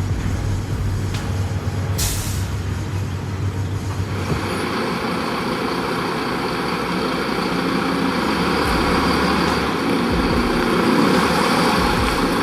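Heavy truck's diesel engine running, with a short air-brake hiss about two seconds in. From about four seconds in the engine sound grows fuller, as if it is working under load.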